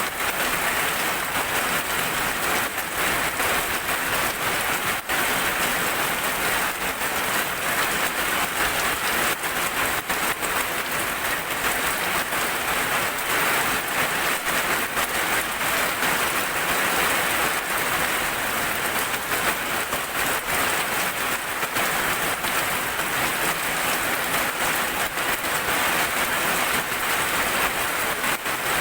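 Heavy rain falling steadily, with a dense crackle of close individual drop hits.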